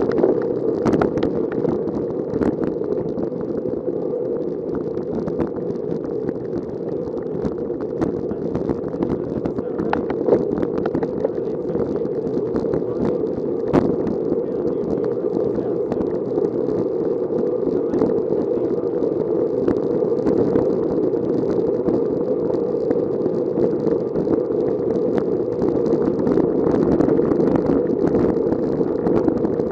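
Steady rushing wind and road noise from a bicycle ride, mostly low and dull, with frequent small clicks and rattles.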